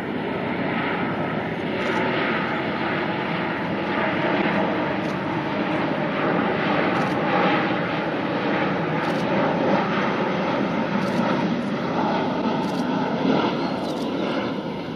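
Boeing 777 airliner on final approach, its twin turbofan engines making a steady loud jet rumble that swells to its loudest near the end as the plane passes.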